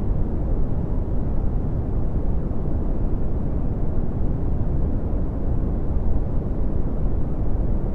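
Red (Brownian) noise: a steady, deep rumbling hiss with most of its energy in the low end and little above about 1 kHz, unchanging throughout.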